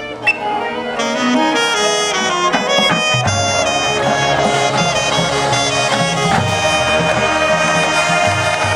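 Marching band brass and woodwinds playing a full-ensemble passage, with a sharp loud accent just after the start and low brass notes coming in about three seconds in.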